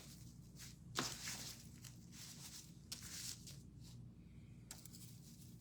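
Faint rustling and a few light taps from dried plant stems being handled and pushed into a woven wall hanging, with one sharper click about a second in, over a steady low hum.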